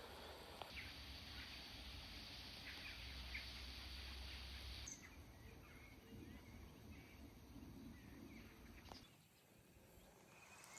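Faint birdsong, a few scattered short chirps over a quiet outdoor background hiss that shifts abruptly a few times.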